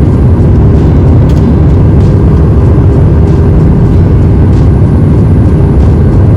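Loud, steady rumble of an airliner heard from inside the passenger cabin: the jet engines and airflow, with a steady hum running through it.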